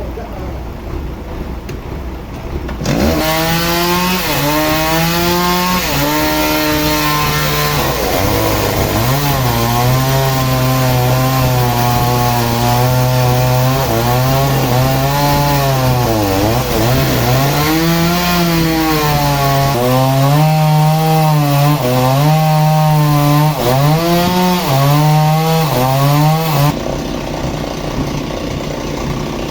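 A saw's small engine running at high speed while cutting wood, its pitch repeatedly sagging under load and picking back up. It starts about three seconds in and cuts off suddenly near the end, leaving a quieter steady machine noise.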